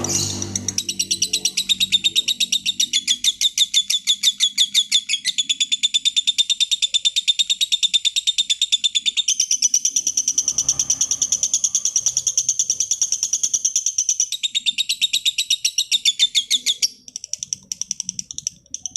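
Lovebird singing a long, unbroken run of rapid, high, evenly repeated chirps, several a second, that breaks up into shorter, sparser chirps near the end.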